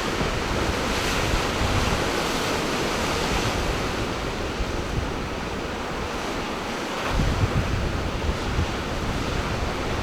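Ocean surf washing against the shore, with wind buffeting the microphone in low rumbling gusts that get stronger about seven seconds in.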